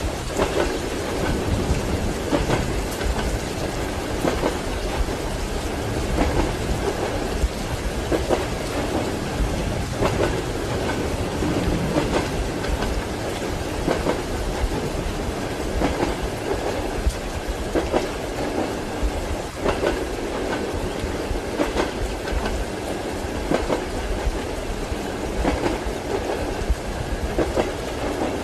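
Train wheels clattering over rail joints in a steady run of repeated knocks, over a constant noise of rain.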